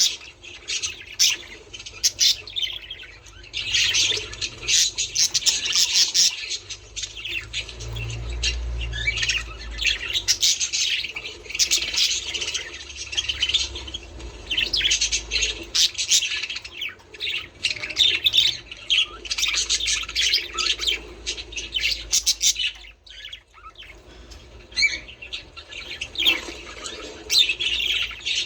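Budgerigars chattering and squawking in dense bursts, with short pauses and a brief lull about three-quarters of the way through.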